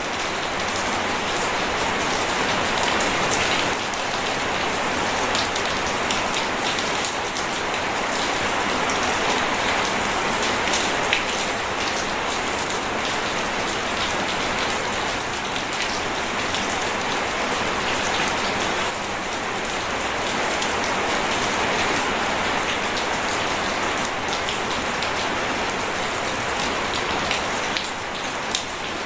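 Steady heavy rain falling, a dense continuous hiss of many fine drops, with no thunder.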